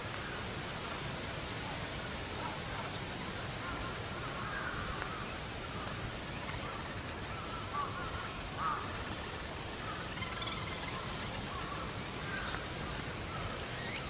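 Outdoor ambience: a steady noise bed with a few short bird calls scattered through it, and a thin, high steady tone that stops about six seconds in.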